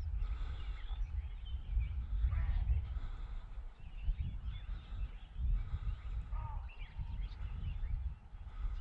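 Wind buffeting the microphone in uneven gusts, with scattered short bird chirps and calls over it.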